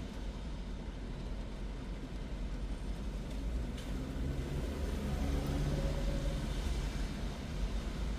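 Car driving on the road: steady low road and engine rumble with tyre hiss, with a faint hum joining in for a couple of seconds about halfway through.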